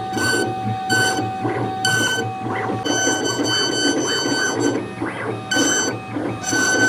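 CNC router carving wood: a steady motor hum with cutting noise, while the stepper motors' pitched whine comes and goes about once a second as the gantry moves back and forth in repeated passes.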